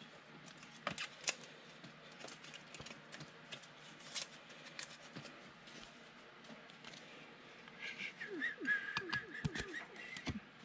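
Trading cards being handled and flipped through: faint scattered clicks and rustles of card stock and packaging, busier near the end.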